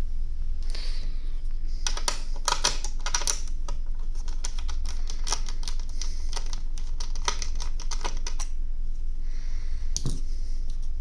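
Small sharp clicks and taps of a screwdriver and screws on a ThinkPad T430's chassis as the top-cover screws are taken out, in a quick cluster a couple of seconds in, then scattered, with one sharper knock near the end. A steady low hum runs underneath.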